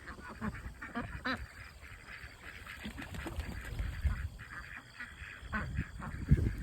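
Domestic ducks quacking in a string of short calls as the newly mixed flock squabbles over pecking order.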